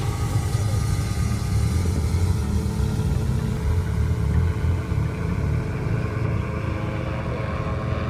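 Motor vehicle engine running with a steady low rumble that wavers in strength.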